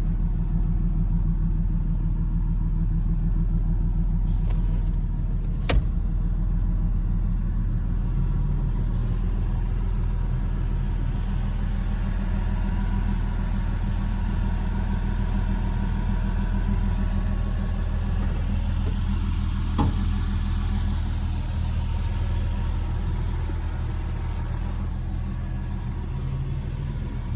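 Porsche Boxster 986's flat-six engine idling steadily, with a sharp click about six seconds in and another near twenty seconds.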